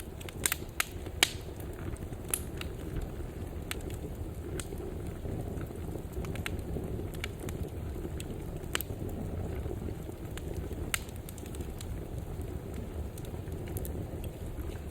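Wood fire burning with a steady low rumble and scattered sharp crackles and pops, several close together in the first second or so, then single pops every few seconds.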